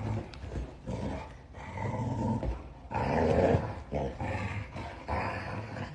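A dog growling in a string of rough growls, each about half a second to a second long.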